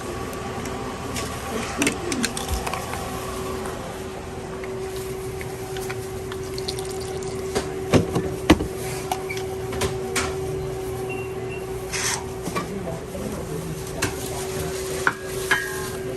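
Sandwich-counter food-prep clatter: scattered clicks and knocks of utensils, containers and handled food, the two loudest about eight seconds in, over a steady mechanical hum.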